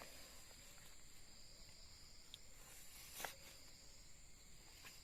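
Faint steady high-pitched insect chorus, with a single short knock or rustle about three seconds in.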